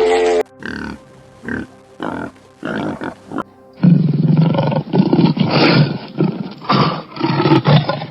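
Edited sequence of animal calls: a few short separate calls, then, from about four seconds in, a loud run of deep repeated roars and grunts from a large animal.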